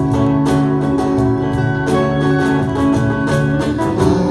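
Strummed acoustic guitar playing an instrumental passage of a song, with no singing.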